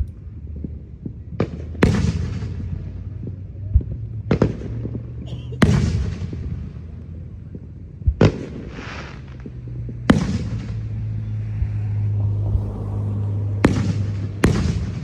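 Fireworks going off: a series of about nine sharp bangs at irregular intervals, each trailing off in a rolling echo.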